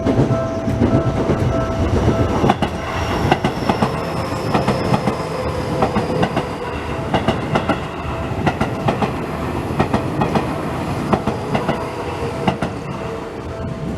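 Seibu Railway commuter train running through a level crossing, wheels clattering over the rail joints in a quick run of clicks, with a faint high whine falling slightly in pitch. The crossing's warning bell rings for about the first two seconds and is then drowned out by the train.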